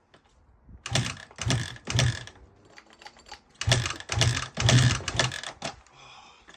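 2007 Honda CRF150R single-cylinder four-stroke dirt bike engine being kicked over: a run of three short coughs about a second in, then four more, about two a second, without the engine catching. It is not starting properly after a full top-end rebuild.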